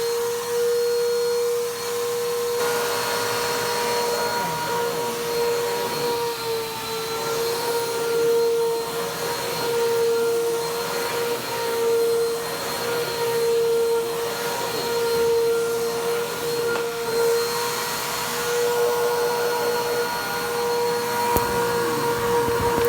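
Bissell PowerTrack Compact 1808 upright vacuum's 7.5 amp motor running at full speed: a steady whine over rushing air that swells and fades about every two seconds. The owner calls the motor's sound terrible and takes it for a motor in need of servicing.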